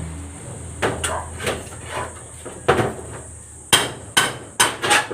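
Hammer blows on wood in carpentry work: about a dozen sharp strikes at an uneven pace, roughly two a second, louder in the last second and a half.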